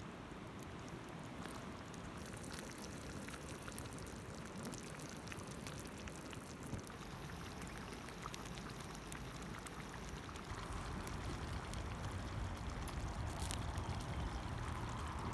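Wood campfire crackling with many small sharp pops over a steady hiss, growing slightly louder and fuller near the end.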